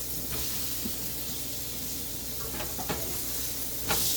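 Food frying in a pan: a steady sizzle, with a few short clicks in the last second and a half, the loudest just before the end.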